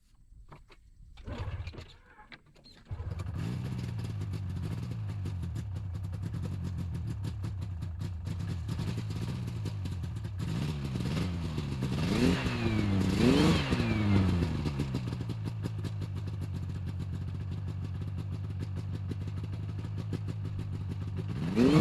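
2000 Yamaha PZ500 Phazer snowmobile's two-stroke twin engine running, which comes in abruptly about three seconds in after a few faint clicks. It is revved up and down several times in quick succession around the middle, then settles back to a steady run.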